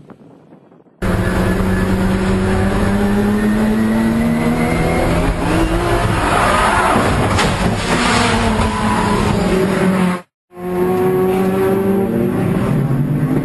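Loud car engine running hard at high revs, its pitch swinging slowly, with tyre squeal near the middle. It cuts off abruptly about ten seconds in, and another engine note picks up straight after.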